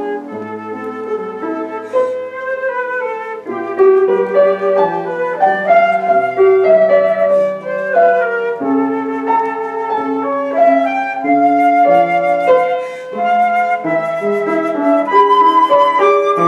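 Flute playing a slow melody in held notes over a lower accompaniment of sustained notes and chords.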